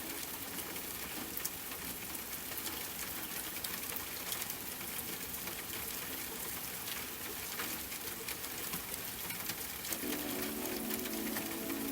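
Steady rain falling, with many separate drops hitting a surface as small clicks. Soft sustained music tones join in near the end.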